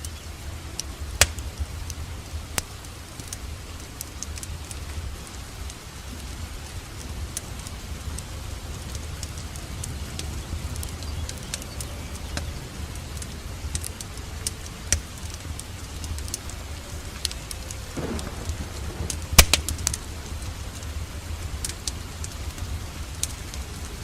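Steady rain hiss mixed with a crackling wood fire in a fireplace, with scattered sharp pops over a low rumble. A brief flurry of loud pops comes about nineteen seconds in.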